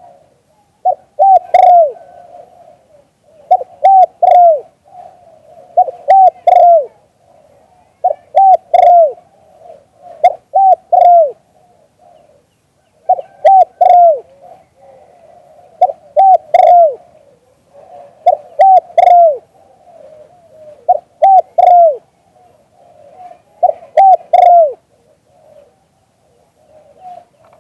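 A dove cooing in repeated phrases, each a few quick coos ending in a falling note, about every two and a half seconds.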